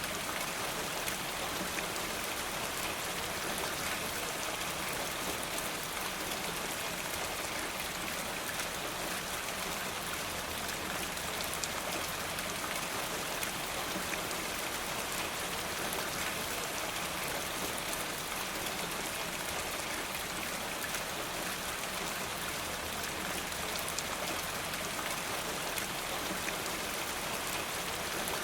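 Steady rain falling, an even, unbroken hiss with faint scattered ticks of drops.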